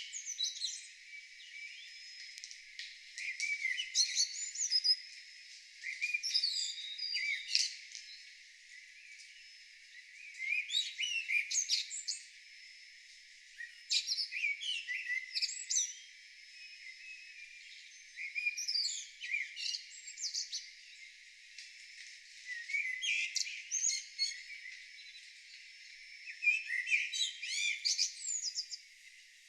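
Songbird song in phrases of quick, gliding, whistled notes, each a second or two long, repeating every few seconds with short pauses between.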